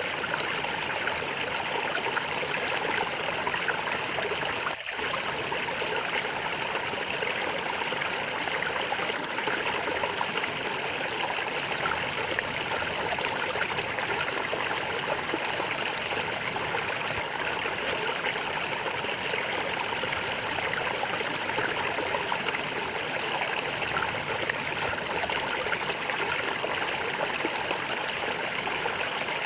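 A stream of water gurgling and trickling steadily.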